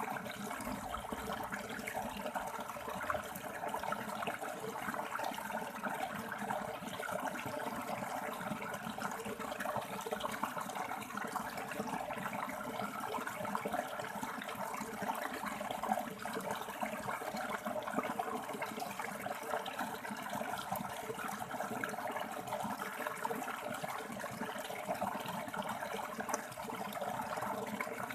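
River water flowing and splashing over rocks, a steady rushing with no breaks.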